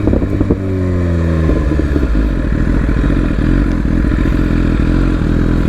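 Sport bike engine dropping in revs, its pitch falling over the first second and a half, then settling into a low, uneven idle.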